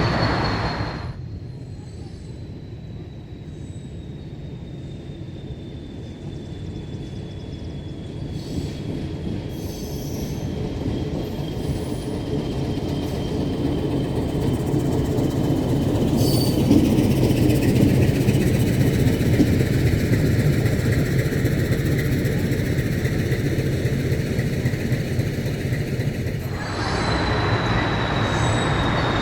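A metre gauge train running on the track, its rumble and wheel noise growing louder partway through and then holding steady. A thin high wheel squeal sounds at the start and again near the end.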